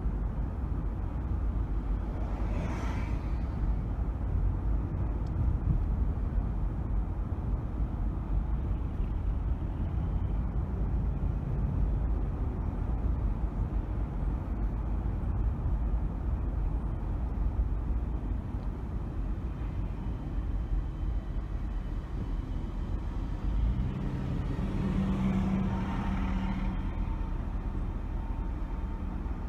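A car driving on city streets: a steady low rumble of road and engine noise. A louder swell of noise comes about three seconds in and another around twenty-five seconds, the second with a short humming tone.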